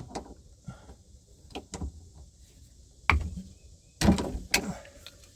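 Handling noise from PEX pipe work: a string of knocks, clicks and scrapes from hand tools and fittings, with the loudest clatter about three and four seconds in.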